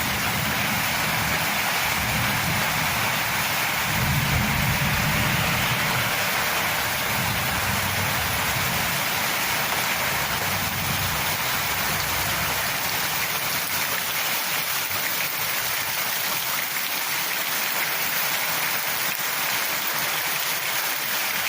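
Heavy rain falling steadily. A low rumble runs under it, loudest about four to six seconds in, and dies away about halfway through.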